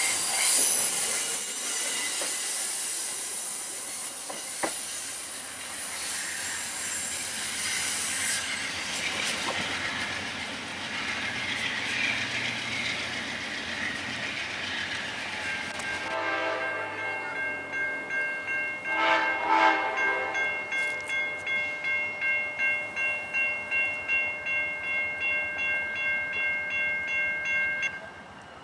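Amtrak passenger cars rolling past close by with a high hiss and rumble of wheels on rail, fading as the train pulls away. About halfway through, a grade-crossing bell starts ringing about twice a second, with a short horn blast from the train about two-thirds of the way in; the ringing cuts off suddenly near the end.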